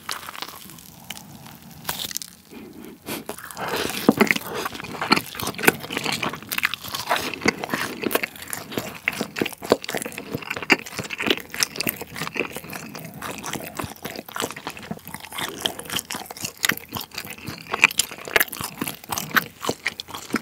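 Close-miked eating: a bite into a fried cheese ball, then continuous chewing with many small, sharp crunching clicks.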